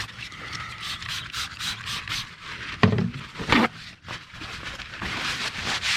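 Rubbing and scraping strokes on a car's rear quarter panel as loose paint, rust and dust are cleaned off to prepare it for primer, with two short knocks about three seconds in.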